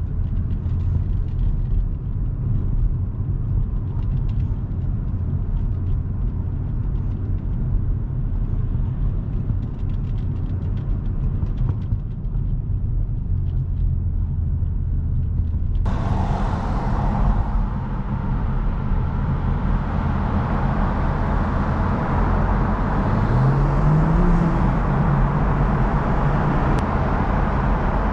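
BMW M240i's turbocharged straight-six running as the car drives, heard as a steady low engine and road rumble. About sixteen seconds in, the sound abruptly turns brighter and hissier, and a brief rising engine tone follows a few seconds later.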